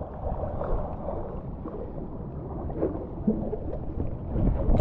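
Rushing, splashing water with wind rumbling on the microphone, louder near the end.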